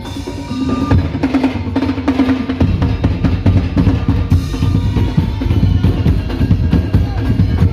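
Madurese tong-tong (ul daul) percussion ensemble playing dense, rhythmic drumming, with the low drum beats growing heavier about two and a half seconds in.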